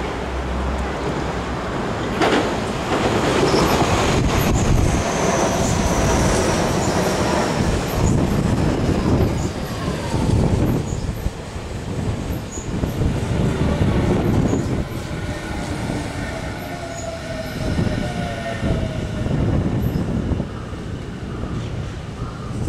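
Tobu 50000 series electric multiple unit passing close by: a steady clatter of wheels over rail joints, with squealing and whining tones that slide in pitch. It is loudest in the first two-thirds and eases off as the last cars go by.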